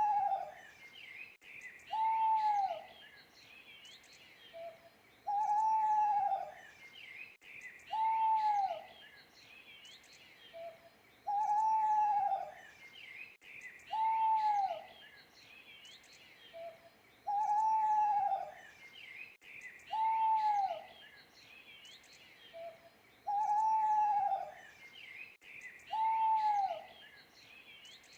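An owl hooting: a short low note, then two drawn-out hoots that arch and fall in pitch about a second and a half apart, the set repeating about every six seconds. Small birds chirp faintly throughout.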